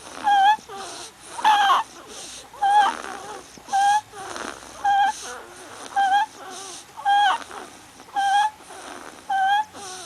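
A baby making the same short, high-pitched squealing call over and over, about once a second, with a wheezy breath drawn between calls.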